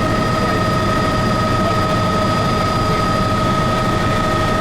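Tour helicopter's turbine engine and rotors running steadily in flight: a constant drone with a steady high whine over it.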